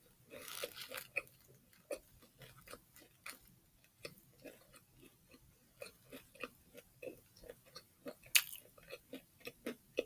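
Close-up chewing of a bite of fried chicken sandwich: a run of soft, irregular crunches and mouth clicks, with one louder crunch near the end.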